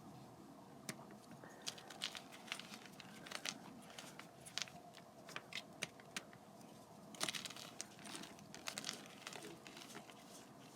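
Block of plain gym chalk being crushed and crumbled by hand close to the microphone: a scattered run of soft, crispy crackles and crunches, busiest about seven seconds in.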